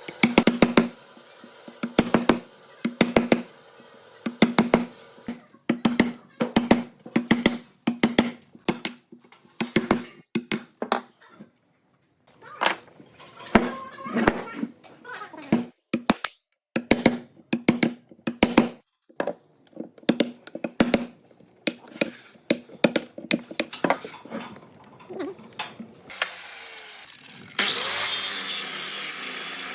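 Repeated hammer blows on wood, sharp ringing strikes at an uneven pace of about one a second, coming faster in places. Near the end a power tool starts up and runs steadily.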